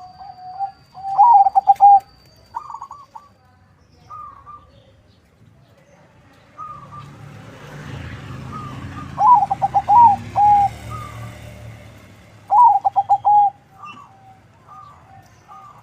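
Zebra dove (perkutut), a local × Bangkok crossbreed, singing its rapid, wavering coo phrases. Three loud phrases, about a second in, about nine seconds in and about twelve and a half seconds in, are separated by softer single coo notes.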